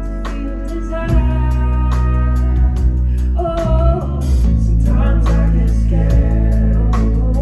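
Live band music: a steady drum beat and bass under held chords, with a singer's sustained notes.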